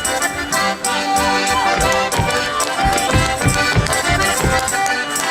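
Russian folk dance tune led by an accordion, with sustained chords. From about two seconds in, heavy low thumps come about two to three times a second.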